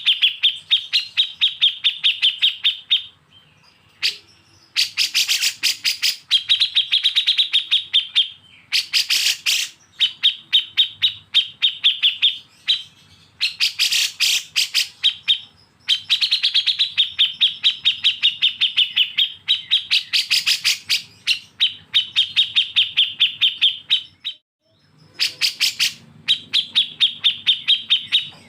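A songbird giving harsh, rapid chattering runs of sharp notes, about eight a second, in phrases of a few seconds broken by short pauses.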